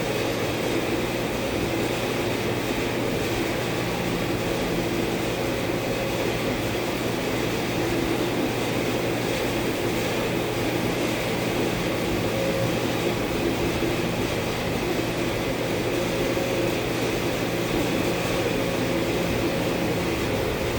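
A steady machine hum with an even rushing air noise, unchanging throughout.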